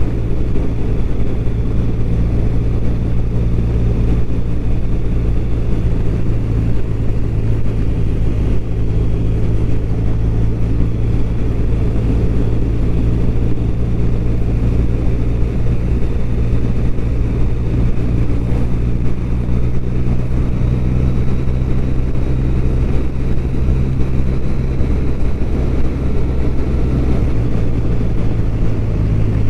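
BMW R1200RT's boxer twin engine running at a steady cruise, with wind and road noise from the moving bike. The engine note shifts slightly near the end.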